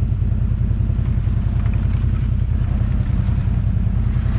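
Quad bike (ATV) engine running steadily at low revs, a dense low rumble that holds even throughout.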